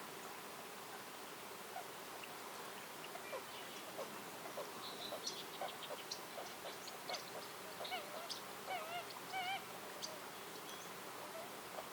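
A bird calling in a quick series of short sharp chips, ending in a few wavering nasal notes about three-quarters of the way through, over a steady faint hiss of forest ambience.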